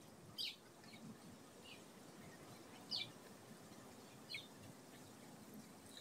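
A bird chirping faintly: a few short, high chirps, each dropping in pitch, the clearest about half a second, three seconds and four seconds in, over a quiet background hiss.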